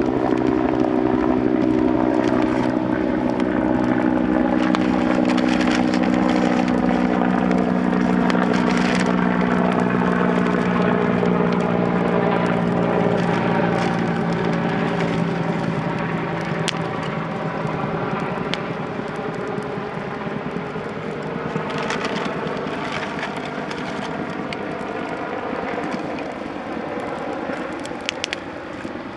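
A steady engine drone made of several held low tones fades away over about the first twenty seconds. A wood campfire crackles with scattered sharp pops throughout.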